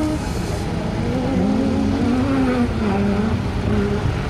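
Off-road race car engine running, its note rising and falling a couple of times, then holding steady for the last second or so.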